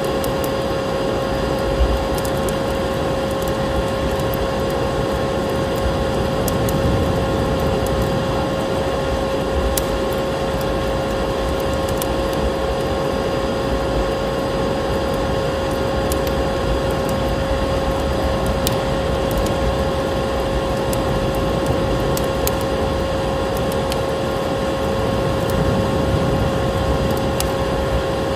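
Layered ambience: the steady motor hum of a vacuum cleaner, holding one pitch, over a low rush of snowstorm wind that swells gently twice, with the sharp scattered crackles of a fireplace fire.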